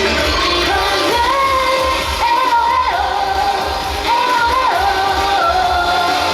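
Pop song with female singing: a sung melody with long held notes over a steady, pulsing bass beat.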